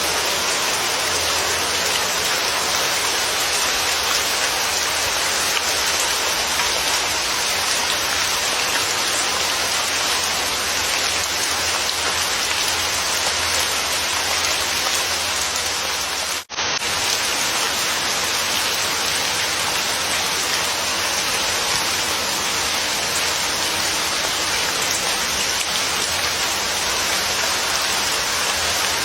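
Steady rain falling, a dense even hiss of drops. It cuts out for an instant a little past halfway, then carries on unchanged.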